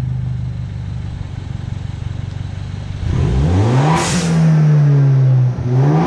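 Turbocharged BMW N13 1.6-litre four-cylinder engine with a straight-piped exhaust idling, then revved hard from idle about three seconds in. A sharp hissing rush from the Turbosmart blow-off valve venting comes around four seconds in and again near the end.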